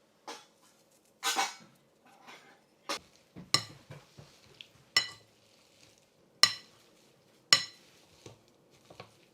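Kitchen utensils clinking against dishes. There is a short scrape about a second in, then several sharp ringing knocks spaced a second or so apart.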